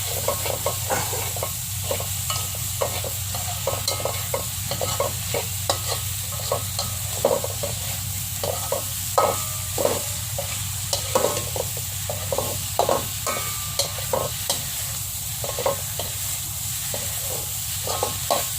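Tomato and paneer masala sizzling in an oiled pan while a stirring utensil scrapes and clinks against the pan in frequent irregular knocks over a steady frying hiss.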